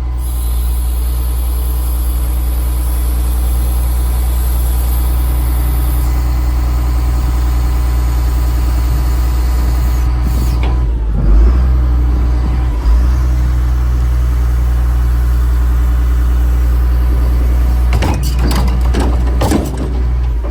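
Diesel engine of a Freightliner FL80 bucket truck running steadily at idle. Two brief louder knocks come about eleven and thirteen seconds in.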